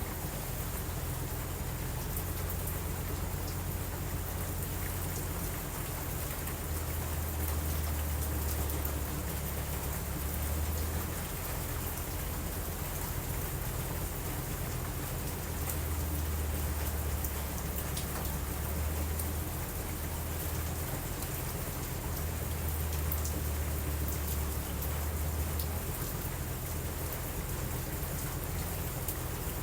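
Steady rain falling, with a low rumble underneath that swells and eases a few times, and scattered small ticks of drops.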